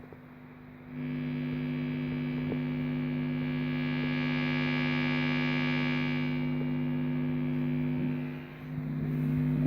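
Fender Hot Rod DeVille III 2x12 tube combo amp with a Fender Professional Stratocaster plugged in, giving off a loud, steady mains hum with a buzzy edge. The hum jumps up about a second in and dips briefly near the end. It is a strange, terrible noise whose cause is unknown.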